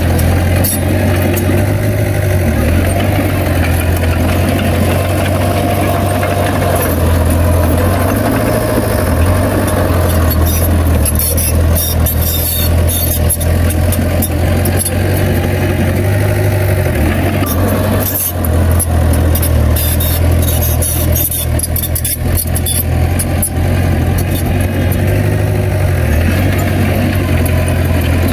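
Heavy diesel engine of a Komatsu bulldozer running steadily, its low pitch rising and falling a little as it works, with occasional sharp metallic clanks.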